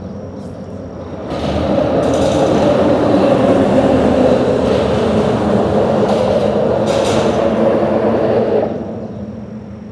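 A vehicle crossing a bridge: a steady rumble with a hum that swells about a second in and fades away near the end.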